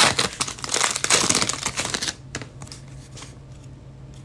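Trading cards and their pack being handled at the table: a rapid run of crackly clicks and rustling for about two seconds, then only a few faint clicks.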